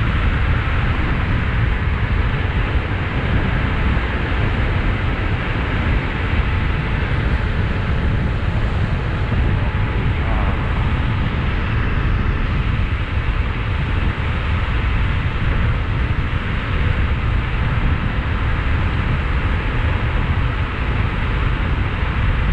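Steady rush of wind on the microphone with road noise from riding a 72 V, 5000 W electric bike at speed. The hub motor itself is barely heard.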